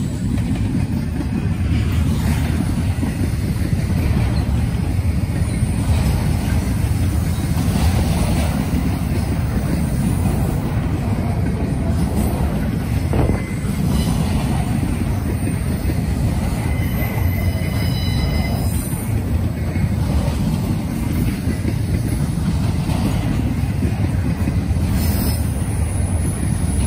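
Norfolk Southern freight train rolling past: a steady, loud rumble of cars and wheels on the rails, with a faint high squeal of wheels on rail around the middle.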